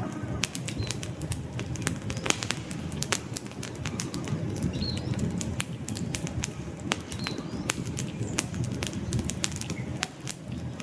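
Wood fire crackling in a fireplace: frequent sharp, irregular pops and snaps over a steady low rush of burning flames, with a few faint short high chirps from the burning wood.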